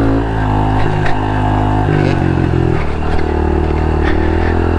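Honda CRF110 pit bike's small single-cylinder four-stroke engine running under throttle while being ridden, its pitch dropping about two seconds in and then rising again as the throttle is worked. A few sharp knocks sound over it.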